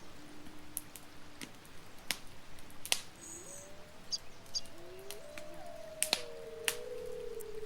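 Wood campfire crackling, with sharp scattered pops. From about three seconds in there is also a low, wavering whistle that slides in pitch.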